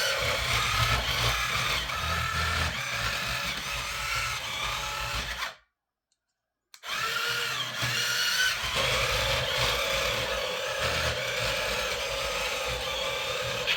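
A toy remote-control battle tank running: its small electric drive motors whir like a drill, with shifting electronic tones from its sound module on top. The sound drops out completely for about a second midway, then resumes.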